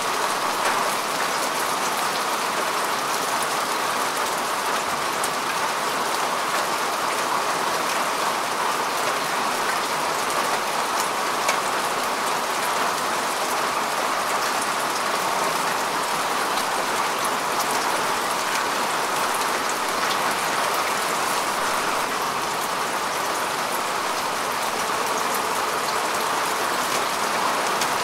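Steady rain falling on grass and earth, a dense even hiss with many fine drop patters.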